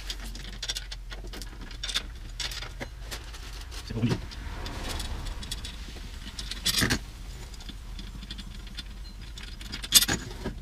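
Small metal drum hardware clinking and clicking as a Gretsch tom is taken apart, with a few louder knocks of parts being set down, over a steady low hum.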